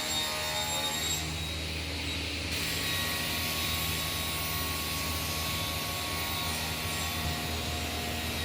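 Woodworking power saw running steadily while cutting panel parts, a high whine over a constant hum.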